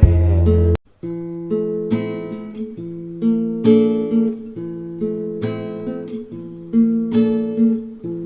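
Background music: acoustic guitar strumming chords in a steady rhythm, with a brief break just under a second in.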